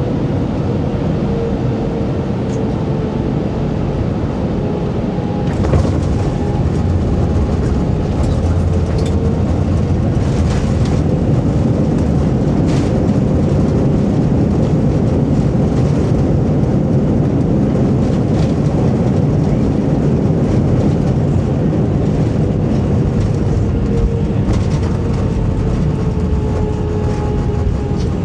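Steady engine and airflow noise inside the cabin of an Airbus A320, with a deep rumble and a tone that slowly falls. From about six seconds in, scattered light knocks come through the rumble.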